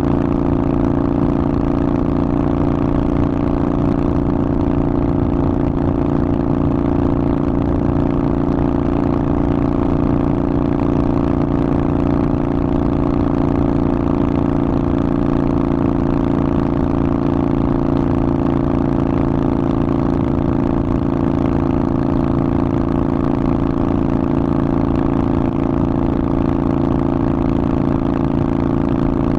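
Harley-Davidson Forty-Eight's air-cooled V-twin running through a Vance & Hines aftermarket exhaust, holding a steady, unchanging engine speed.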